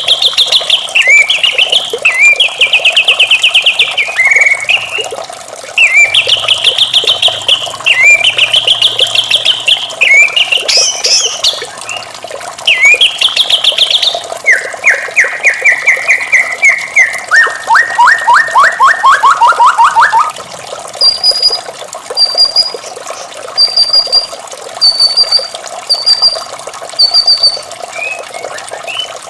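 White-rumped shama (murai batu) singing a run of rapid, loud trilled phrases. About two-thirds of the way through comes a lower trill that drops in pitch, and then a string of short, high, evenly spaced whistled notes.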